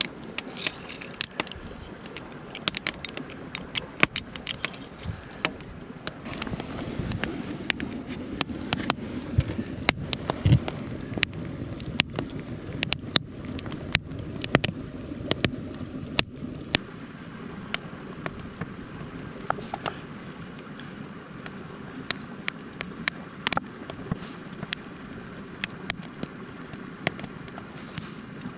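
A wood fire crackling, with frequent sharp irregular pops, over the steady rush of a mountain stream.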